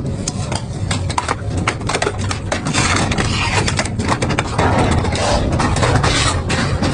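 Industrial double-shaft metal shredder running and tearing up metal: a steady low machine drone under a rapid, irregular string of sharp cracks and clangs.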